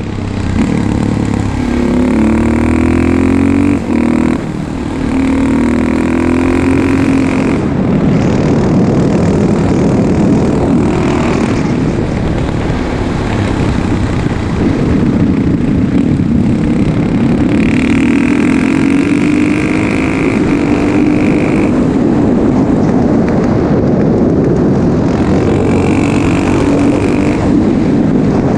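KTM 640 LC4 single-cylinder four-stroke engine, exhaust fitted with a dB killer, revving up and down under load as the supermoto is ridden, its pitch climbing and dropping repeatedly, with a brief throttle-off dip about four seconds in.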